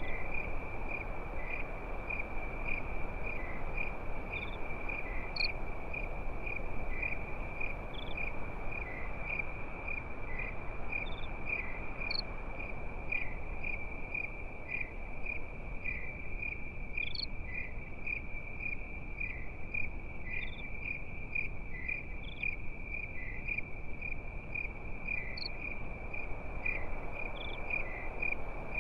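Crickets chirping in a steady, evenly pulsing high trill, over a soft low hiss and crackle of a campfire, with a few faint high pops scattered through.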